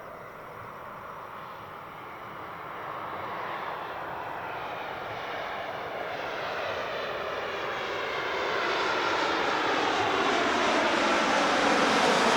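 Boeing 787-8 twin-engine jet airliner on landing approach, its engine noise growing steadily louder as it comes nearer, with a sweeping, phasing quality.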